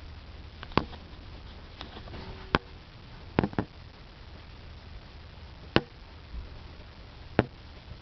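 Sharp clicks and knocks, about seven in all, a couple coming in quick pairs, over a faint steady low hum: the removed CT26 turbocharger being handled, hard parts tapping together.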